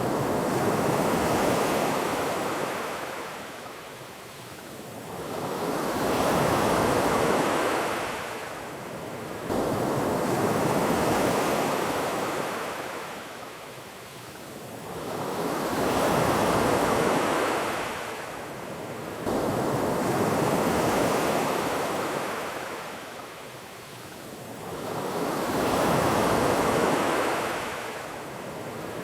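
Ocean waves washing onto a beach, the surf swelling and falling back about every four to five seconds in a steady rhythm.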